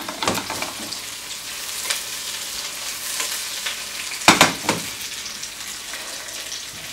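Sliced fennel sizzling in a non-stick wok while the wok is shaken and tossed, with a few scraping knocks at the start and a louder pair of knocks a little past the middle as the wok comes back down on the glass-ceramic hob.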